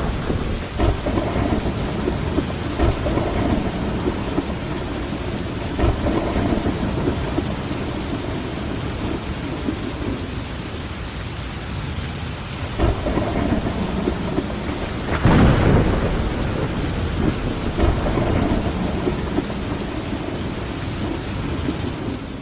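Steady rain with thunder rumbling, and a louder clap of thunder about two-thirds of the way through. The sound begins to fade out near the end.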